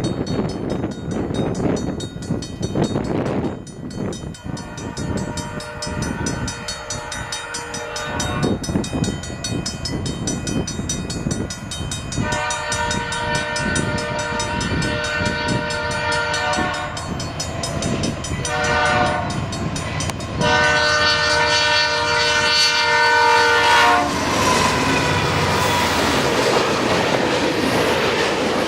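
Air horn of CN GE C44-9CW diesel locomotive 2563 sounded in a series of blasts, long ones with shorter ones between, over the rumble of the approaching train; the last and loudest long blast cuts off about 24 seconds in, leaving wheels rolling over the rails. The uploader calls the horn terrible.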